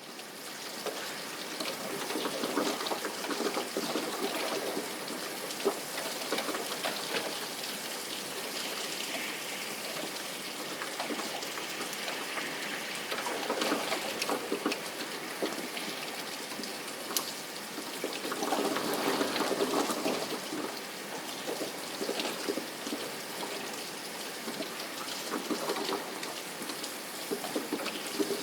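Steady rain, a dense patter of many small drops, swelling heavier twice, about halfway through and again about two thirds of the way in.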